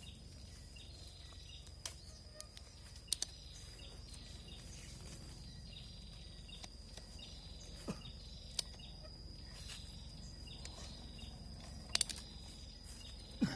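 Forest ambience: a steady high insect drone, with a short chirping note repeating about once a second and a few sharp clicks scattered through.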